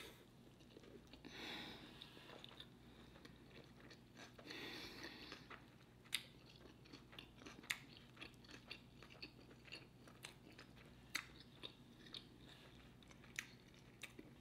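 Faint chewing of a mouthful of smoked barbecue burger: soft, wet chewing with short sharp mouth clicks scattered throughout.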